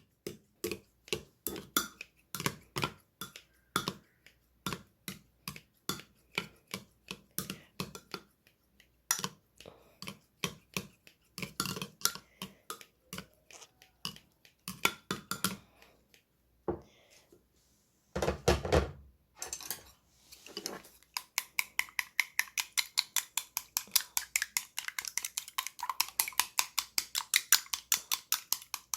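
Eggs being beaten in a bowl with a utensil, clicking and clinking against the bowl at a few strokes a second, with one duller knock partway through; near the end the beating speeds up into rapid whisking.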